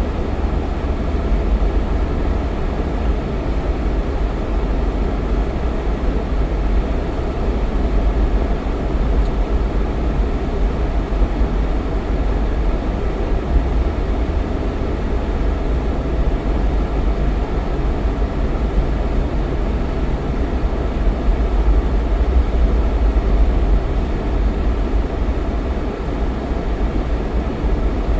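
Jeep Cherokee XJ driving at steady speed: a continuous deep rumble of engine and road noise with no changes.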